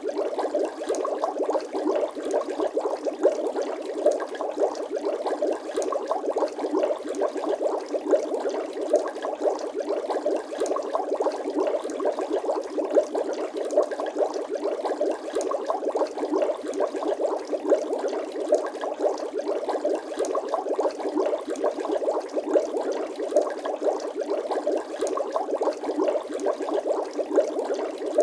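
Bubbling water sound effect: a steady, dense stream of small bubble pops that goes on without a break.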